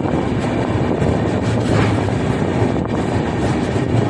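Indian Railways express train heard from on board: a steady, loud rumble of the coach and its wheels on the rails.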